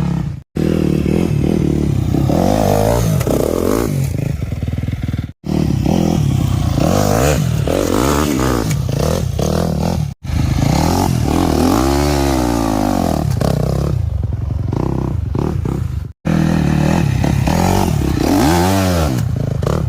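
Dirt bike engine revving up and easing off as it is ridden slowly at and over a log, the pitch rising and falling repeatedly. The sound breaks off abruptly about four times, in separate short takes.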